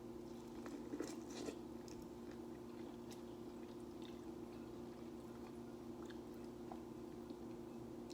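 Faint close-up chewing and biting of corn on the cob, with scattered small crunchy clicks, a few together about a second in, over a steady low hum.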